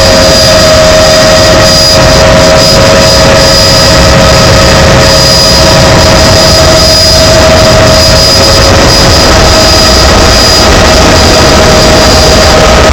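Helicopter's turbine engine and rotors running steadily in flight, heard from on board: a loud steady whine over a dense rumble.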